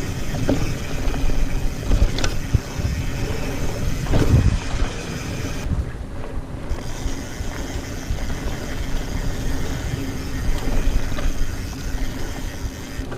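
Mountain bike ridden over a dirt trail, heard from a camera mounted on the rider: steady low rumble of wind and rolling, with scattered knocks and rattles from the bike going over bumps.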